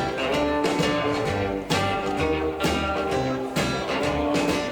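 Live rockabilly band playing an instrumental bar between vocal lines: guitar over bass and drums, with a steady beat.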